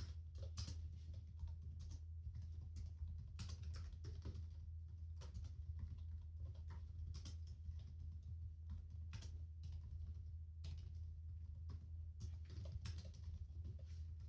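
Computer keyboard typing: an irregular, continuous run of soft key clicks over a steady low hum.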